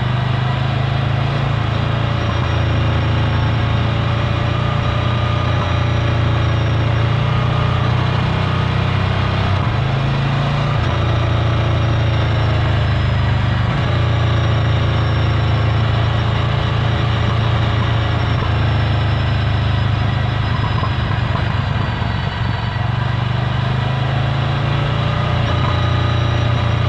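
Ducati Scrambler Full Throttle's air-cooled L-twin engine running steadily at low revs through a Termignoni exhaust, with a few brief dips in engine speed.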